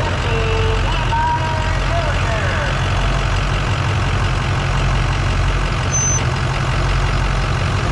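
A truck engine idling steadily, with faint voices in the background.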